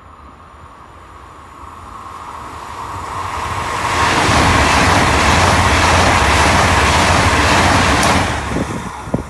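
Frecciargento ETR 600 tilting high-speed electric train passing through the station at speed. Its rush of wheels and air rises over about four seconds, stays loud for about four more, then falls away as the tail clears, with a few sharp knocks near the end.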